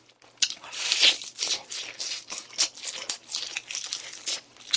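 Fried chicken being bitten and chewed close to the microphone: crackly crunching and mouth sounds, loudest at the bite about a second in.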